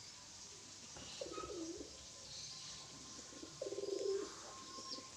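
Domestic pigeons cooing, two low coos about a second and three and a half seconds in, over a faint steady high tone.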